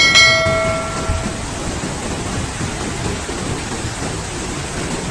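Heavy rain falling as a steady, loud hiss. Right at the start, a ringing metallic tone with several pitches sounds once and fades within about a second.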